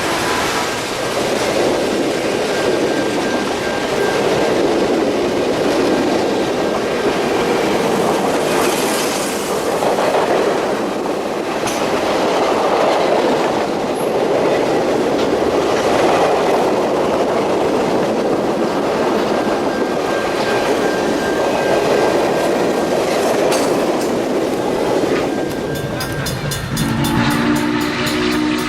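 Norfolk & Western 4-8-4 steam locomotive 611 running with its train, a loud rushing and rolling noise that swells and eases every few seconds. Near the end its chime whistle starts to blow, several tones at once.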